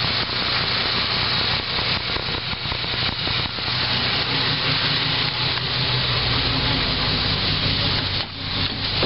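A 1993 Chevrolet S10 Blazer's rebuilt 4.3-litre V6 idling smoothly on a newly installed MSD distributor, its timing set only by ear so far. Rubbing noise from the camera being handled lies over it, and the sound dips briefly near the end.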